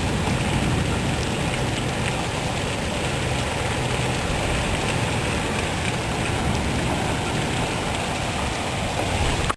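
Steady rain falling and splashing on surfaces, an even continuous hiss, as the storm eases to plain rain.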